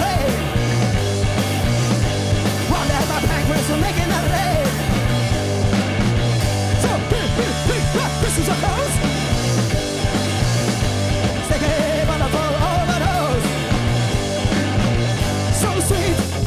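Live rock band playing loud, dense, noisy rock music without a break, over a heavy, steady bass, with wavering notes sliding up and down above it.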